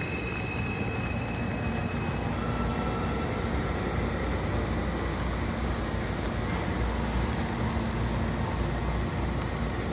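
New York City Subway L train coming into the station: a high-pitched wheel squeal dies out about two seconds in, leaving a steady low rumble and hum from the train.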